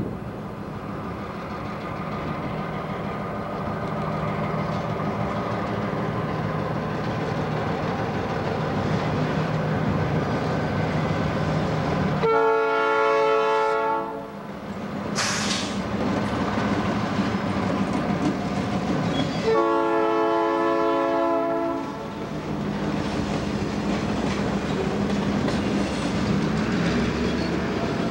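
Diesel freight locomotive passing with its engine running, sounding two long blasts on its multi-tone horn about seven seconds apart, followed by freight cars rolling by over the rail joints.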